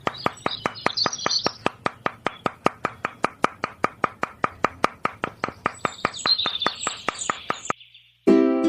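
Rapid, even knocking or tapping, about five strikes a second, with birds chirping over it. The knocking stops near the end, and ukulele music begins in the last half-second.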